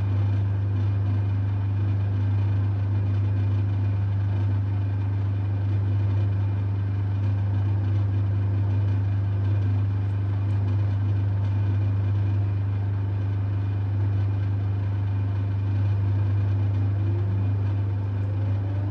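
LG F1222TD washing machine running with a steady low hum, which cuts off right at the end.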